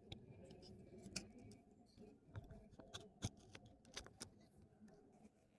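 Near silence with faint, irregular clicks.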